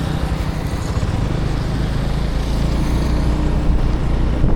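Motorbike running at riding speed, a steady engine and road rush with no break.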